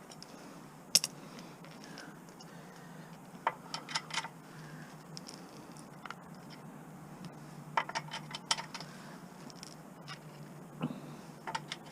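Scattered light clicks and clinks of hand tools working on a gas lawn mower engine, prying off its plastic cover, in small clusters a few seconds apart over a faint low hum.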